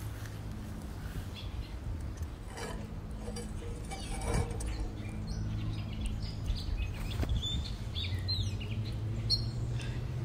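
Small birds chirping, a scatter of short calls mostly in the second half, over a steady low hum.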